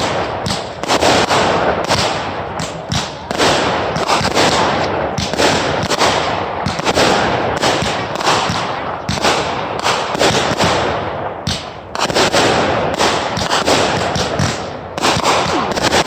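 Consumer fireworks going off in a dense barrage: rapid overlapping bangs and crackling with barely a pause, easing briefly about twelve seconds in before picking up again.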